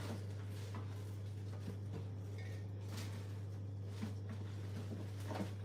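Steady low hum with a few faint, soft taps and clicks scattered through it, about three to four seconds in and again near the end.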